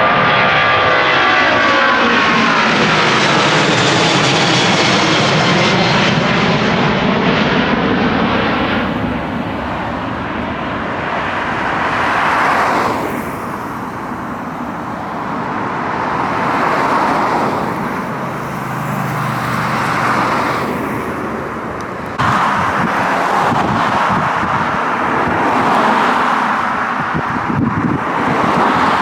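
Widebody jet airliner passing low overhead on its climb-out after takeoff: a loud jet roar with an engine whine that falls in pitch as it goes by, easing after about nine seconds into a rising and falling fading rumble. The level jumps up abruptly about 22 seconds in.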